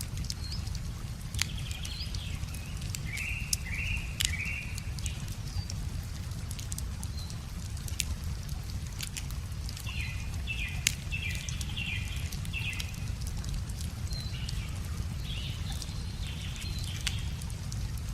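Campfire wood crackling, with scattered sharp pops, over a steady low rumble, while a songbird sings short repeated phrases in three spells.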